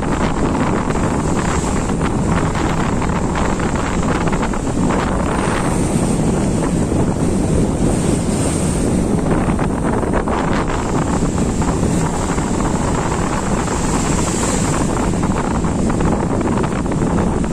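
Strong wind buffeting the microphone over the steady rush of sea waves.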